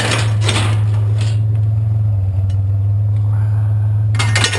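A truck engine idling with a steady low hum, with a few short noisy bursts over it near the start, about a second in and near the end.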